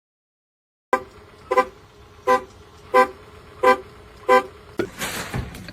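A series of six short, evenly spaced honks, about one every 0.7 seconds, followed near the end by a brief burst of hissing noise.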